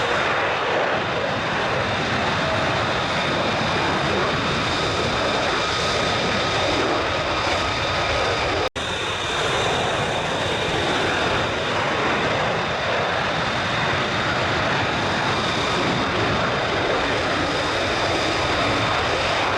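Military jet aircraft engine running steadily, a continuous roar with a high steady whine over it. The sound cuts out for an instant about nine seconds in, then resumes as before.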